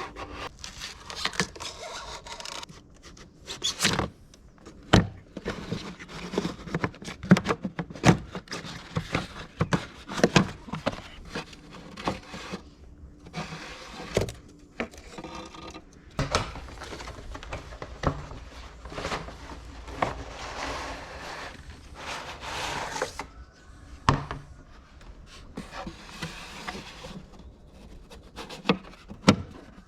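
Hand tools and car parts being handled during an oil and filter change: scattered knocks and clinks with stretches of scraping and rubbing.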